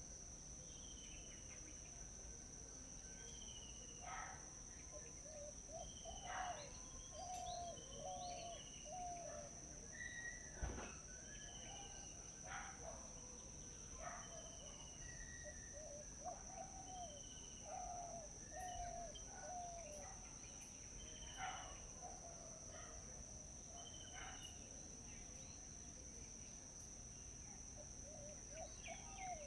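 Several birds calling in short repeated notes, some low and others higher, over a steady high-pitched insect drone. A single sharp tap sounds about ten seconds in.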